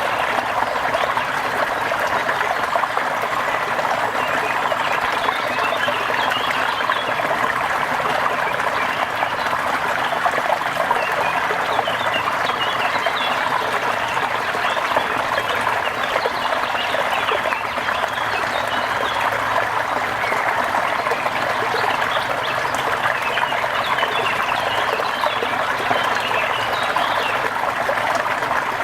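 Rain falling steadily with running, trickling water, a constant even hiss. Short high chirps come through it now and then, several times across the stretch.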